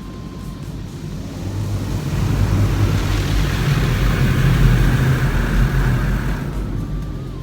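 Touchless automatic car wash equipment passing over the car, heard from inside the cabin: a rushing noise with a low rumble that swells about a second and a half in, holds for a few seconds and fades near the end.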